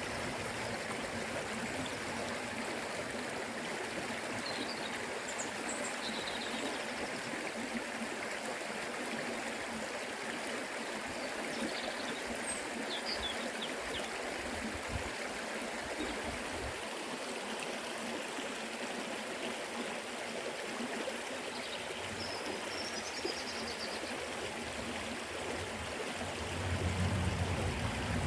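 River water rushing and splashing in a steady stream, with a few faint short high chirps scattered through. Near the end a deeper, louder rush swells in.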